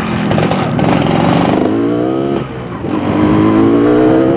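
Yamaha RX-King 135cc two-stroke motorcycle engine accelerating under way, its pitch rising. About two and a half seconds in it drops in pitch and level for a moment, a gear change, then climbs again.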